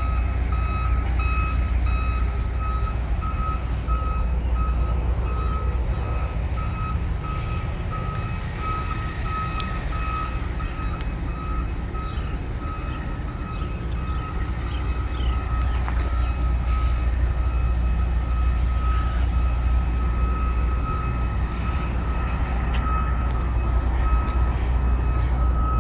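Reversing alarm on a John Deere 260E articulated dump truck beeping in a steady, even run, over the low, steady running of its diesel engine.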